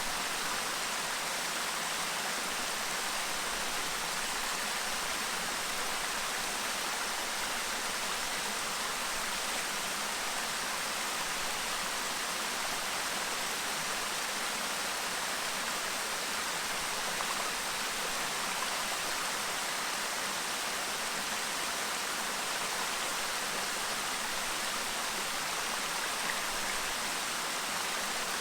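Clear mountain stream babbling over rocks, a steady, even rush of water.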